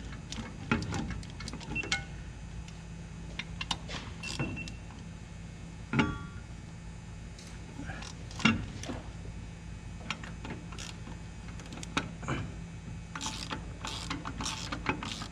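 Scattered light clicks and knocks over a steady low hum, with a few sharper knocks about six seconds in, near the middle and near the end.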